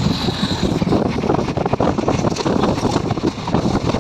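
A moving passenger train heard from on board, its running noise mixed with heavy wind buffeting the microphone.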